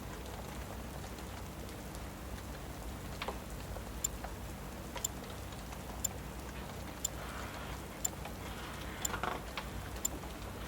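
Steady rain and fireplace ambience with an occasional crackle. About four seconds in, a sharp tick starts and repeats evenly once a second.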